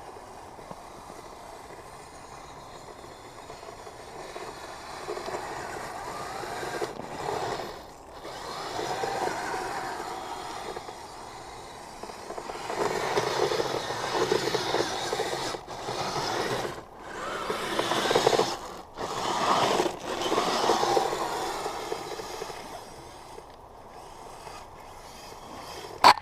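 Electric motors and gearboxes of a Kyosho Blizzard RC tracked snowcat whirring, rising and falling with the throttle. The sound cuts out sharply for a moment several times in the second half.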